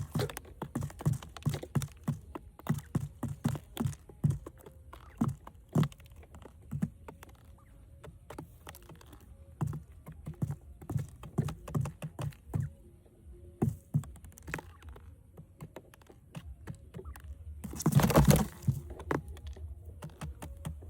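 Irregular light taps and knocks, some quick and clustered, with a louder burst of scraping noise about eighteen seconds in.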